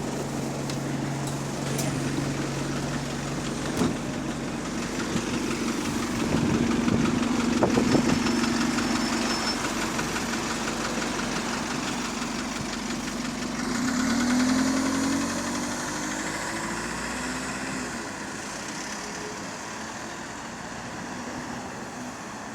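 A bus's diesel engine running, heard from on board, with a knocking the title puts down to engine rod knock. The engine note shifts and rises about two thirds of the way through, then the sound eases off toward the end.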